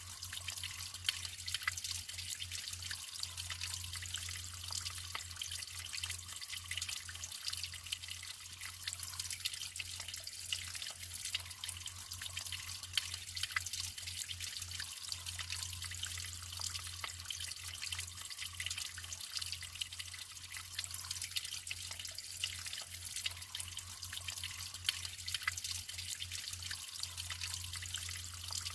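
Natural flowing water trickling and splashing steadily, a dense patter of small drips and splashes.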